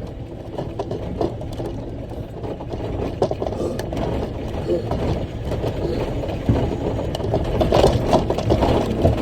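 Heard from inside the cab, a big off-road rock truck runs with a steady low engine rumble under constant rattling and clattering, the cab and its fittings shaking as it drives.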